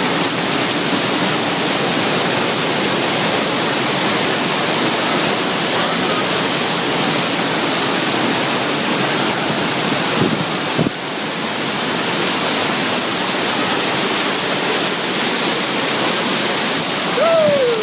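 Water pouring and splashing from a fountain in a steady rush, briefly dropping in level about eleven seconds in.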